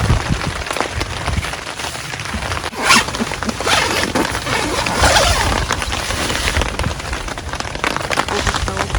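Heavy rain falling steadily, with a few short, louder noisy bursts about three and five seconds in.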